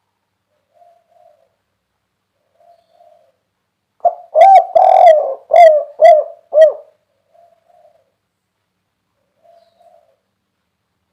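Spotted dove cooing. About four seconds in comes one very loud close phrase, a long coo followed by three short falling coos, the three-note 'kuk 3' song. Faint coos repeat about every two seconds before and after it.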